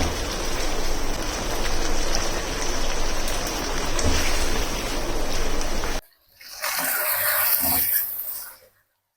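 Steady rush of running water that cuts off about six seconds in, followed by a second, shorter rush of water before silence near the end.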